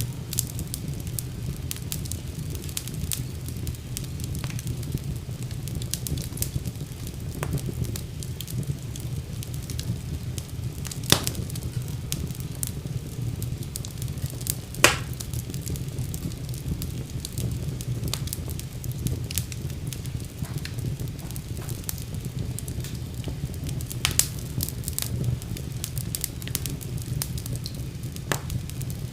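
Wood fire crackling in a fireplace: a steady low rumble of flames under a constant scatter of sharp crackles, with a few louder pops, two of them standing out near the middle.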